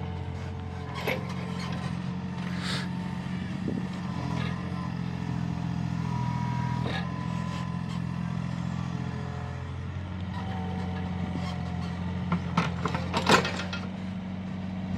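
Mini excavator engine running steadily while it digs, with scattered sharp knocks and clanks; a quick cluster of louder knocks comes near the end.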